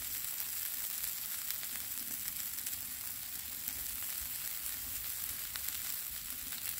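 Sausage patties and shredded-potato hash brown cakes sizzling on a Blackstone flat-top griddle: a steady hiss with fine crackling pops.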